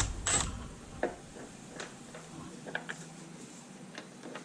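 A few small, scattered clicks and taps, about a second apart, from small parts being handled while working on a fitting that won't go in. A brief burst of noise comes right at the start.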